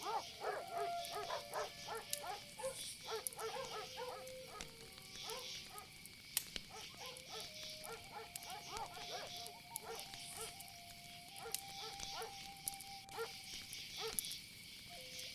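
Night insects such as crickets chirring steadily, with a scattering of short pitched calls and a few soft held tones lower down.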